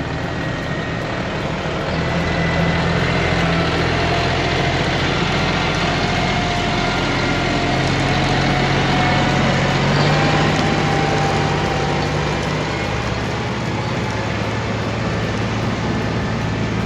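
Engine of a vehicle being ridden, running steadily as it drives. Its note rises a little about two seconds in and eases slightly near the end.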